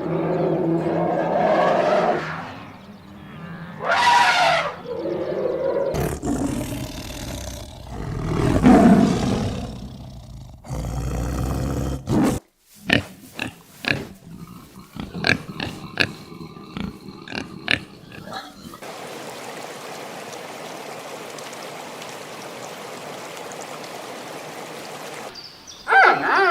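Animal calls in short edited clips: loud, deep calls over the first half, then a run of sharp clicks and knocks, then a steady hiss for the last several seconds.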